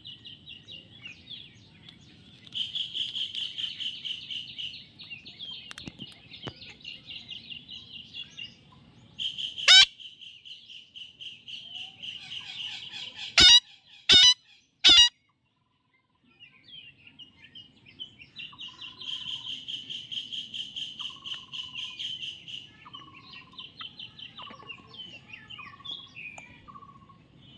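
Baby parrot chirping rapidly and repeatedly in long high-pitched runs. A few loud sharp sounds break in around the middle, and short falling notes repeat near the end.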